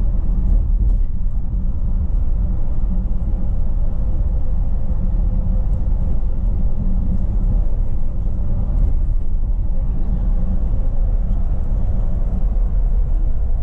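Steady low rumble of a moving bus heard from inside the passenger cabin, with a few faint light rattles and ticks.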